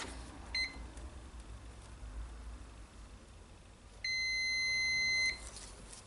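Multimeter continuity beeper: a short beep about half a second in, then one steady high beep lasting over a second near the end. The beep signals continuity through the conductor of the radio's power cord, so the cord is good.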